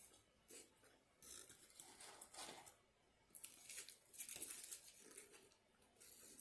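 Faint eating and food-handling sounds: crinkling and rustling of the paper wrapper and packaging, with bites, in several bursts of a second or so.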